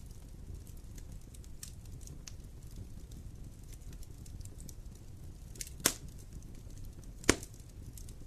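Wood campfire burning: a low steady rumble of flames with scattered small crackles, and two loud sharp pops about a second and a half apart in the second half.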